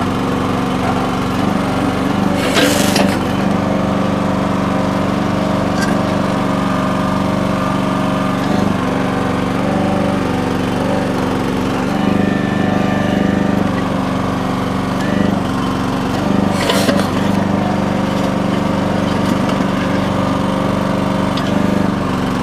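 Small gas engine of a mini backhoe running steadily while the hydraulics work the digging arm, its note swelling a little at times under load. Two short bursts of noise stand out, about three seconds in and again about seventeen seconds in.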